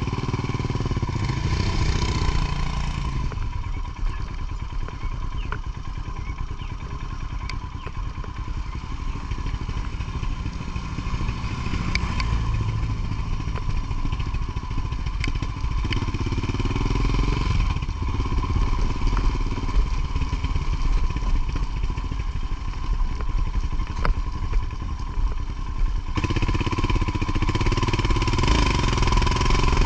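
Motorcycle engine running under way, with the engine note rising in louder stretches about two seconds in, around sixteen seconds, and again near the end, and a few sharp knocks along the way.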